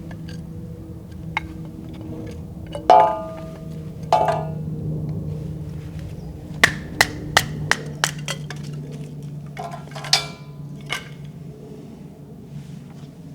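Hard objects clinking and knocking together: two sharp clinks that ring briefly, a quick run of about five light knocks, then a few more clinks, over a steady low hum.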